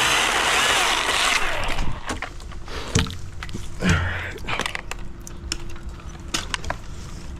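Cordless chainsaw running for about the first second and a half, then cutting off. Scattered clicks and knocks of wood and rigging gear follow.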